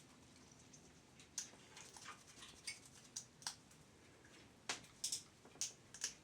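Parrots making short, scattered high chirps and clicks, about ten separate sounds, with a cluster of them in the last second and a half.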